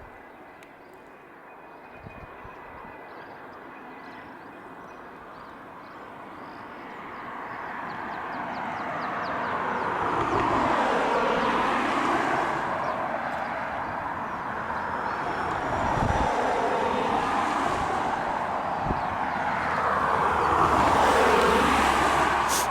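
Airliner coming in to land, its engine noise swelling from faint to loud over several seconds, then rising and falling in whooshing sweeps as it passes close by.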